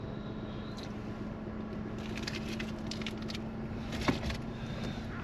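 Crinkling and cracking of a plastic-and-foil blister pack as Panadol tablets are pressed out, a run of small crackles followed by a sharp click about four seconds in.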